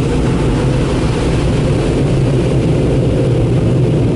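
Dryer blowers of a Mark VII AquaJet GTO-700 touchless car wash running steadily: a loud rush of air over a low, even hum, with water being sprayed on the car during the drying pass.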